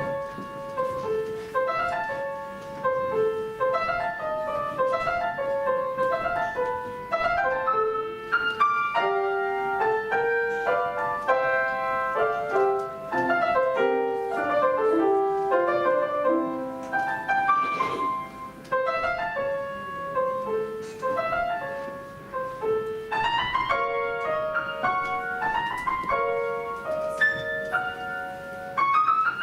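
Solo piano playing a melodic piece, with single notes and chords struck in a steady flow.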